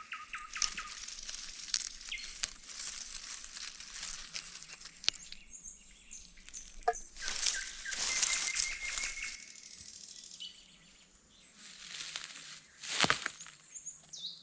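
Small birds chirping, with short whistled notes, among rustling and scraping noises. A longer, louder swish comes about eight seconds in and a sharp one about thirteen seconds in.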